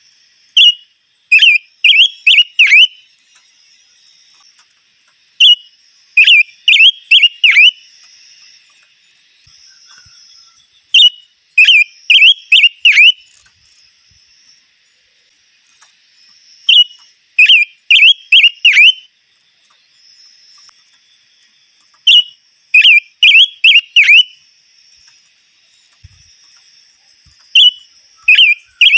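A songbird (the 'chim ngũ sắc') singing a short whistled phrase: one lead note, then four or five quick down-slurred whistles. The phrase repeats six times, about every five and a half seconds, with a faint steady high hum between phrases.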